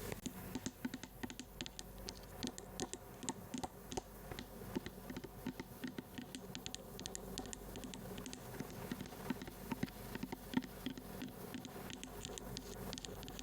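ASMR tapping and scratching on an object: rapid, light, irregular clicks and scrapes.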